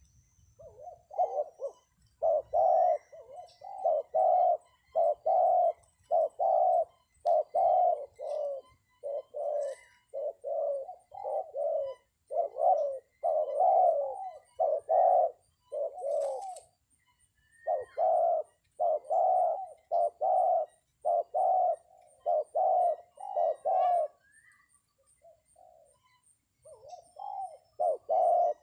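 Spotted dove cooing: a long run of short, repeated coos, about one to two a second, broken by two brief pauses. Faint chirps of small birds sound behind it.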